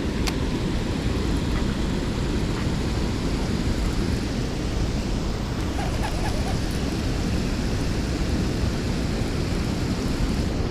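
Steady wind buffeting the microphone: a continuous low rumble with no clear beat or tone.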